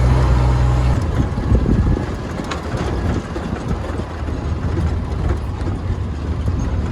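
Engine and road noise of a moving vehicle, heard from inside. A steady low engine hum drops away about a second in, leaving an even rumble.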